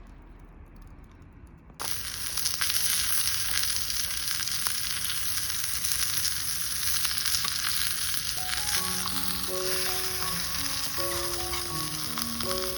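Meat frying on a hot iron griddle: a loud, crackling sizzle that starts suddenly about two seconds in and runs on steadily.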